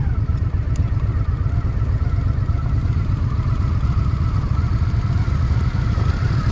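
Honda Shadow VT750's V-twin engine running steadily at low revs, with a deep pulsing exhaust beat mixed with wind noise on the microphone.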